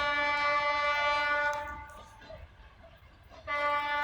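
ChME3 diesel shunting locomotive's horn sounding a long blast of about a second and a half, then a short blast near the end, both on one steady pitch.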